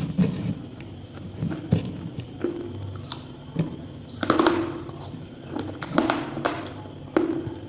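Irregular knocks and scuffs, about a dozen, with short pauses between them and a denser cluster just past the middle.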